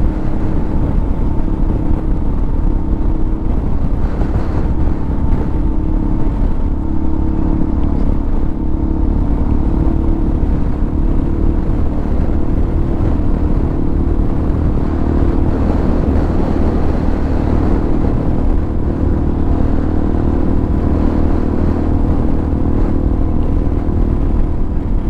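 Hawk 250 motorcycle's single-cylinder four-stroke engine, fitted with a Motocults stage 4 kit, running at a fairly steady cruise while riding, with heavy wind noise on the microphone.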